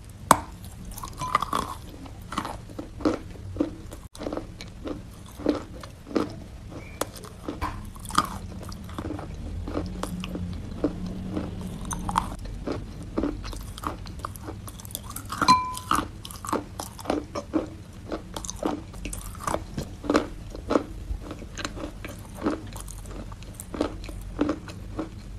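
A person biting and chewing a block of wet sawn chalk: repeated crisp crunches and crackles, about one or two a second.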